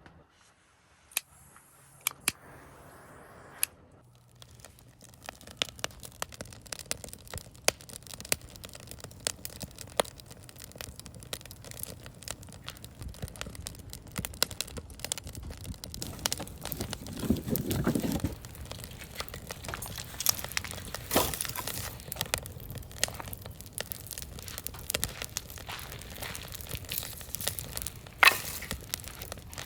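Wood fire crackling in a fire pit, with many sharp irregular pops and snaps. The crackling gets busier after the first few seconds, with one louder swell about two-thirds of the way through.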